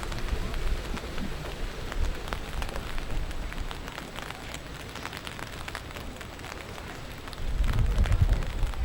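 Heavy rain falling, with many scattered sharp drop ticks. About seven seconds in, a louder low rumble sets in.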